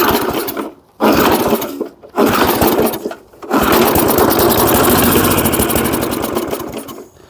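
A 3.5 hp Briggs & Stratton engine on a 1979 Rocket push mower firing on primed gas. It runs in short bursts with brief cut-outs, then runs for about three seconds and dies away near the end. The owner puts this down to dumping in too much gas.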